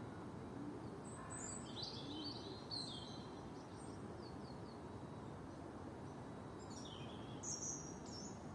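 Several small birds chirping and trilling faintly over steady outdoor background noise, with clusters of high calls about a second in and again near the end.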